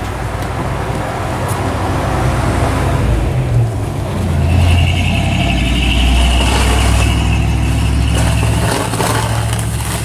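A heavy road vehicle's engine rumbling as it passes. It grows louder toward the middle, with a high steady hiss for a few seconds at its peak, then eases a little near the end.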